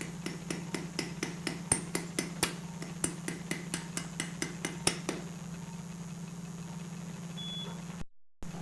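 Mallet tapping a suture anchor down through its guide into the bone: a run of light, evenly spaced strikes, about four a second, that stops about five seconds in. A steady low hum runs underneath.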